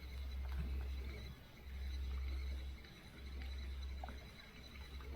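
Low rumble of wind buffeting the microphone, coming and going in gusts about every second or two, with a few faint small clicks.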